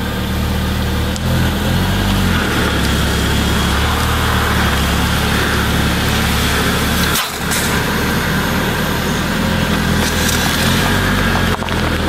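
Mercedes-Benz car's engine running steadily close by as the car creeps forward, its front tyre pressing down on a plastic soda bottle until the bottle splits.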